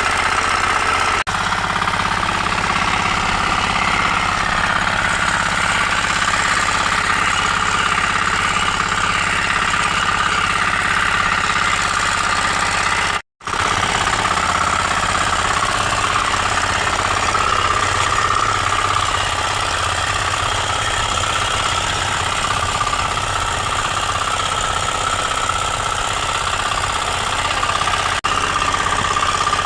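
Engine of a 9.5 hp power weeder running steadily. The sound drops out completely for a moment about halfway through.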